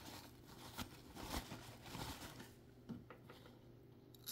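Faint rubbing and a few soft short scrapes of a cleaning cloth worked over the sewing machine's surface, under a low steady hum.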